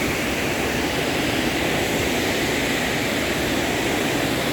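Steady roar of a waterfall's rushing water, an even rushing noise that keeps the same level throughout.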